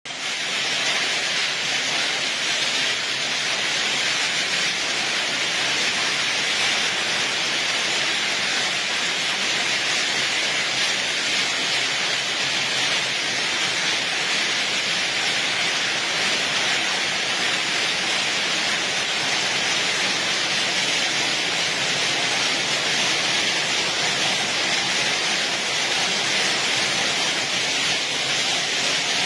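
Heavy hail and rain coming down, a steady dense hiss with no letup.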